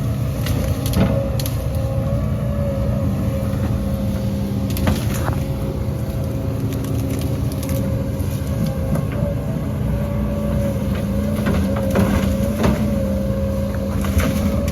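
Heavy earthmoving machinery's diesel engine running steadily, with a thin wavering whine above the engine note and scattered knocks and clatter.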